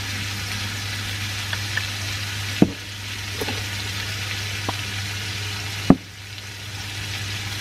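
Chicken pieces frying in an aluminium wok, a steady sizzle over a low hum. Two sharp knocks come through it, about two and a half seconds in and again near six seconds.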